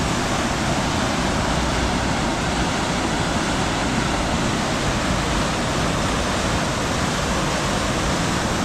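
Water rushing steadily over a small dam on a stream, a constant, even rush.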